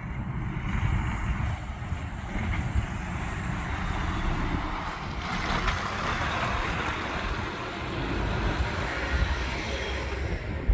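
A heavy truck driving past, its engine and tyre noise swelling to its loudest about halfway through.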